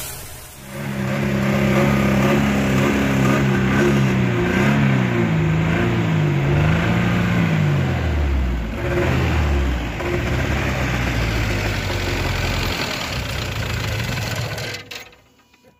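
Mercedes-Benz W124's M111 four-cylinder petrol engine running and revved up and down several times, then cut off near the end. The engine has a knock, which the owner puts down to years of running on gas.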